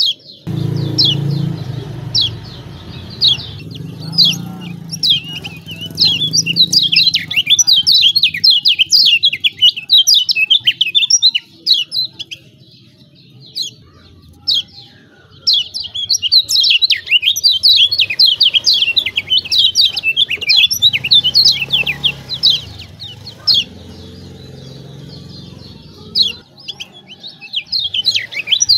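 Kecial kuning (Lombok white-eye) giving rapid, high ciak-ciak chirps in long excited runs, with a short lull in the middle. A faint low rumble sits underneath at the start and again later.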